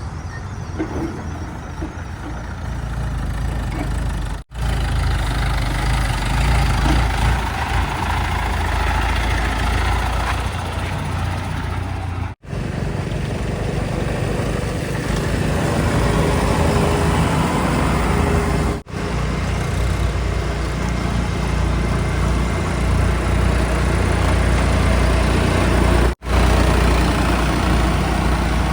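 Heavy diesel engines of earthmoving and haulage vehicles running steadily, cut into short stretches with brief dropouts between them.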